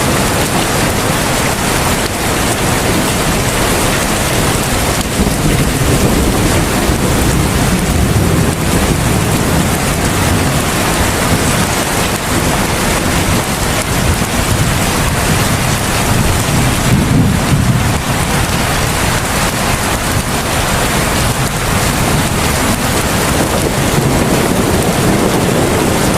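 Heavy rain pouring steadily in a dense, even hiss, with a low rumble swelling up a couple of times.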